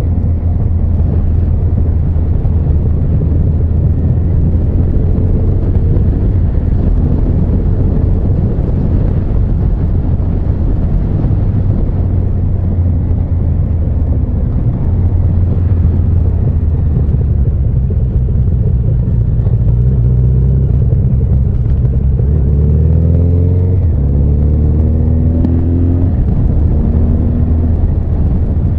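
Honda CB1300 Super Bol d'Or's inline-four engine running as the motorcycle rides along, a steady low drone. About two-thirds of the way through, the engine note rises and falls a few times as the revs change.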